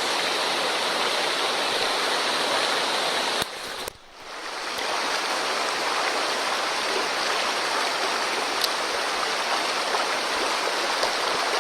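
Swollen mountain stream, high after a typhoon, rushing steadily. The sound drops away sharply about three and a half seconds in and swells back over the next second or so.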